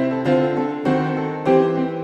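Gentle piano music: soft notes struck about twice a second over held bass notes, each note ringing and fading.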